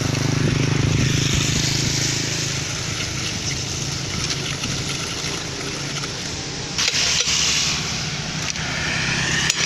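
Diesel engine of a Hino concrete mixer truck running steadily, a little louder in the first couple of seconds, with a brief rushing noise about seven seconds in.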